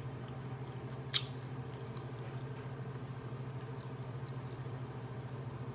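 Chewing and small wet mouth clicks of someone eating barbecue chicken off the bone. There is one sharper click about a second in, over a steady low hum.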